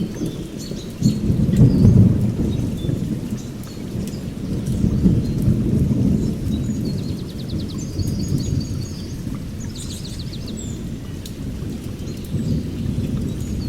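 Rolling thunder in several low waves, loudest about two seconds in, over steady rain. Short high bird trills sound a few times in the second half.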